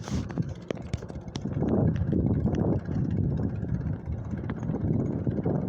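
Low, steady rumble of highway traffic mixed with wind on the microphone from a moving bicycle, growing louder about a second and a half in, with scattered light clicks.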